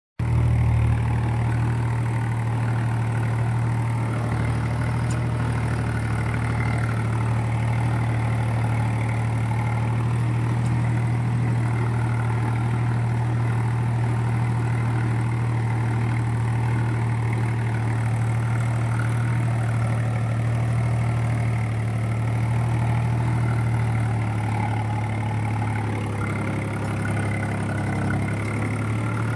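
Swaraj tractor's diesel engine running steadily at a constant speed, a low even hum with no change in pitch.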